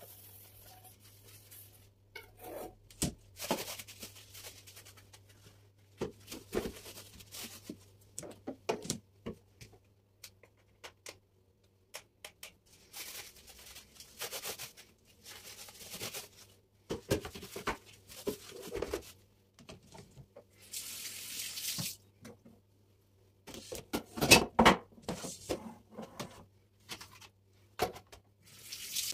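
Intermittent kitchen work: scattered knocks and clatter of items being handled, with several short hissing rushes like running or pouring, over a steady low hum.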